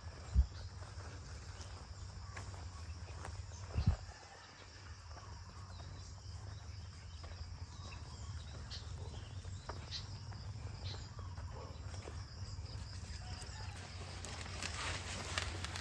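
Quiet background noise: a steady low rumble with faint scattered ticks, and two dull thumps, one about half a second in and one about four seconds in.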